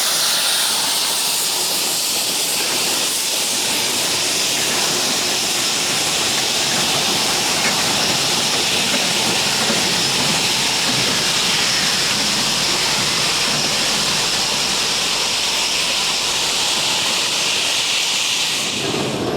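Geared steam locomotive venting steam: a steady, loud hiss that cuts off suddenly near the end.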